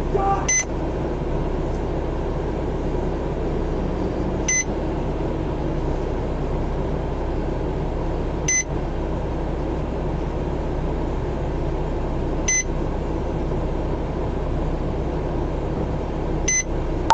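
A short, high electronic beep repeating evenly about every four seconds, five times, over the steady low hum of a vehicle running.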